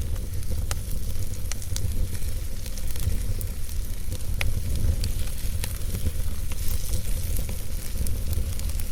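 Wood fire burning in a fireplace: a steady low rumble and hiss, with a few sharp crackles and pops from the burning wood scattered through.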